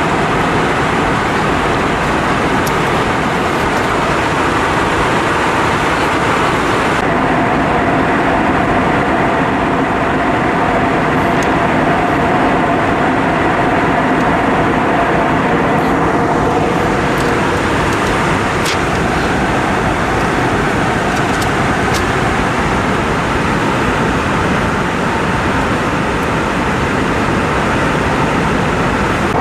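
Airbus A320 cabin noise: a steady, loud rush of jet engine and air noise heard from inside the cabin. The upper hiss dims slightly about seven seconds in.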